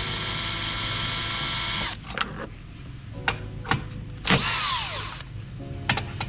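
A cordless power tool's motor runs steadily for about two seconds, spinning out a bolt that holds the cross member, then stops. Short metal clinks and knocks follow.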